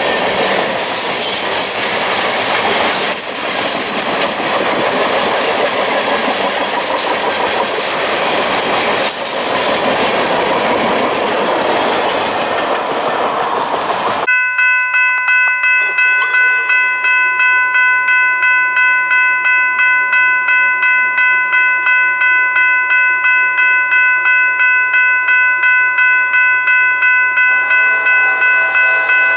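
A train passing close, a loud rumble of wheels on rail with high-pitched wheel squeal. About halfway through it cuts off abruptly to a railroad grade-crossing bell ringing steadily, about two strokes a second. A faint train horn starts near the end.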